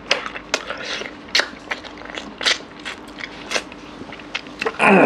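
Close-miked chewing and lip-smacking of a man eating mutton curry and rice by hand, a scatter of short wet clicks, with a louder, longer mouth sound falling in pitch near the end.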